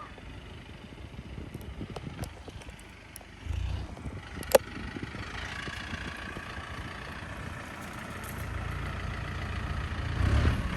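Mahindra tractor's diesel engine running, with a single sharp click or clank about halfway through; the engine grows louder over the last few seconds.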